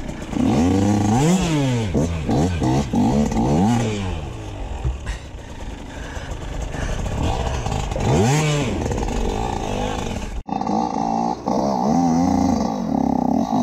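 Enduro dirt bike engine being ridden, its pitch rising and falling over and over as the throttle is opened and closed. About ten seconds in the sound cuts off abruptly and picks up again with an engine held at a higher, steadier pitch.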